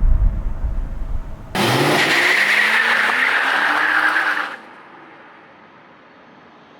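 Low rumble of a car on the move, then about a second and a half in a sudden loud burst of a car engine revving with screeching tyres. It lasts about three seconds and cuts off abruptly.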